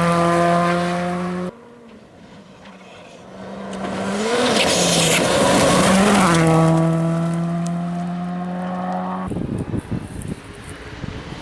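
WRC2 rally car engine at high revs, flat out past the microphone. It cuts out abruptly about a second and a half in, then a car's engine builds up again with two quick gear changes and holds a steady high note before cutting off suddenly near the end, leaving a rough noisy rumble.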